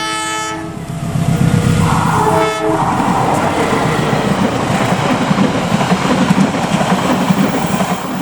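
Train horn sounding a chord for under a second, and again briefly about two and a half seconds in, as a train passes close by with a loud steady rumble and wheel clatter.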